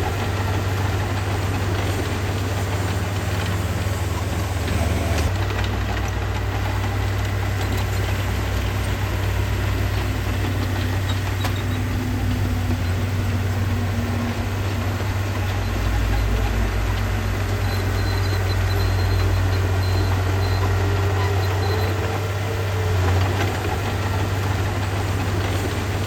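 Diesel engine of heavy earthmoving equipment running steadily with a low drone, swelling slightly past the middle as the load changes.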